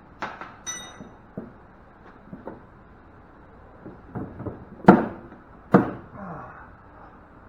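Metal scrap parts clanking and knocking as they are handled and pulled free: a short ringing clink of metal near the start, a few lighter knocks, then two loud knocks about five and six seconds in, followed by a brief scrape.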